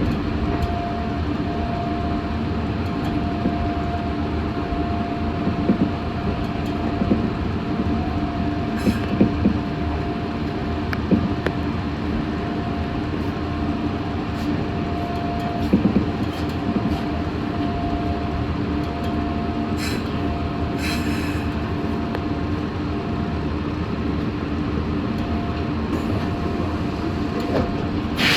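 Meitetsu 6500-series electric train running, heard from inside the front car: a steady rumble of wheels on the track with a constant whining tone, and a few sharp clacks over rail joints. A louder short noise comes at the very end.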